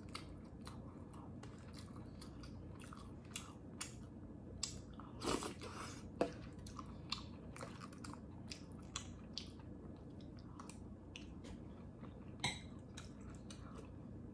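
A person chewing and eating with a fork, wet mouth sounds with many short clicks, and a few louder clicks or clinks of the fork against the dish about five and six seconds in and again near the end.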